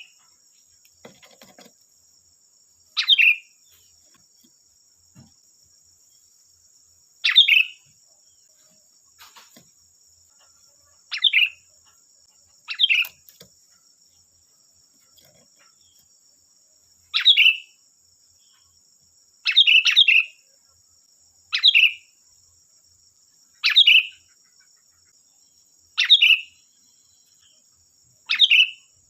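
Sooty-headed bulbul (kutilang) giving short, loud calls, one every two to four seconds, about eleven in all. A faint steady high hum runs underneath.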